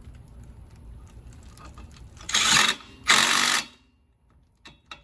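Plastic cable ties being pulled tight around the washer's wiring, two quick ratcheting zips about two and three seconds in, each about half a second long.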